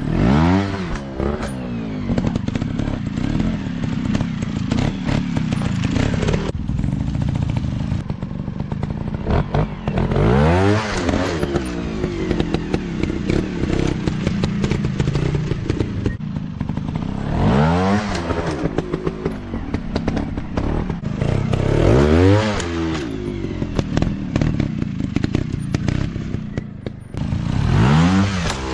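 Dirt-bike engines revving hard and falling back about five times, with the pitch climbing and dropping on each burst. Clattering knocks and scrapes run under the engines.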